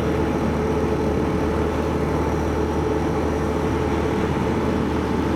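Motorbike engine running at a steady cruising speed, its hum holding one pitch, under an even rush of wind and road noise.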